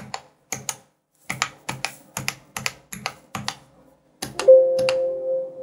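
Everest Rampage KB-R88 mechanical keyboard keys pressed one at a time, each a pair of clicks, a couple of keys a second. About four seconds in a steady tone comes in and holds, louder than the keys, while the clicks go on.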